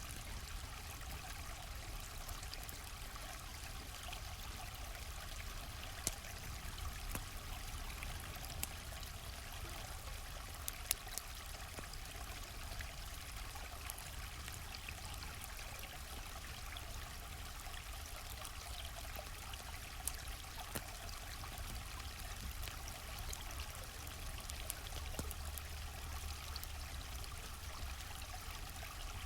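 A gently flowing stream, a steady trickling rush of water, with a few sharp pops from a crackling campfire scattered through it.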